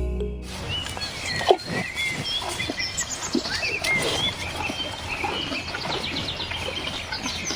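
Outdoor natural sound: many short animal chirps over a busy crackling, pattering background. It cuts off abruptly at the end.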